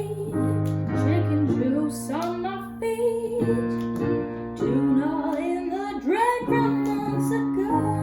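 A woman singing a melodic line over instrumental accompaniment with held low notes; the music fades near the end.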